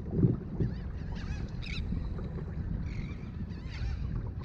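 Birds calling repeatedly in short wavering cries over a steady low rumble of water and wind around a kayak.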